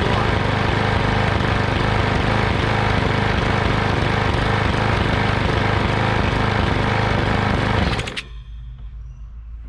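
Small lawn mower engine running steadily despite its bent crankshaft, then cutting off abruptly about eight seconds in.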